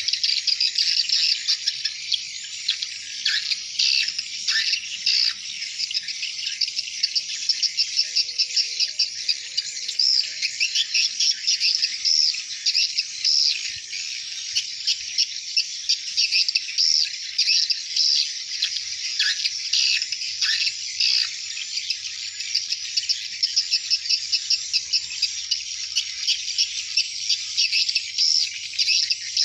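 Dense, continuous twittering and rapid clicking chirps of a large flock of swiftlets.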